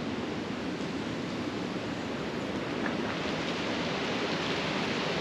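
Rushing water, a steady even noise that swells a little about halfway through.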